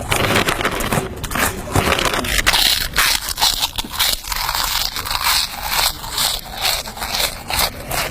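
Loud, close crinkling and crunching of a snack being eaten from its wrapper, a steady run of irregular crackles with no pause.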